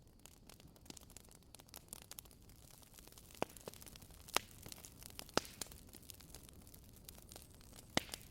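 Burning firewood crackling: a steady hiss with frequent small snaps and four louder pops spread through the middle and end.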